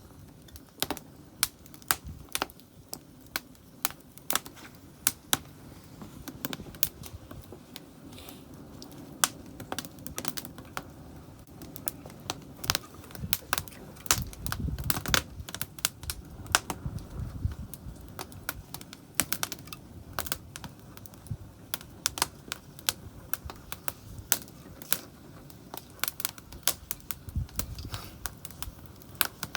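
Wood campfire crackling, with irregular sharp snaps and pops several times a second.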